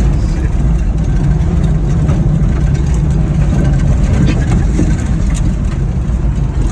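Old Ford F-Series pickup truck's engine running steadily as the truck drives, a continuous low rumble.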